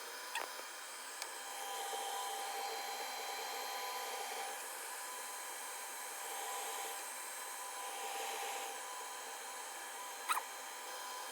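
Laser back-glass removal machine and its fume extractor running: a steady fan hiss with faint whining tones that swell and fade as the laser works. There are a couple of short clicks, the sharpest about ten seconds in.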